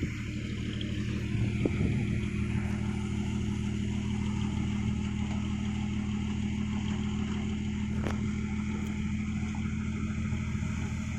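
Diesel engine of an Isuzu Deca dump truck running at a steady, even speed, with no revving.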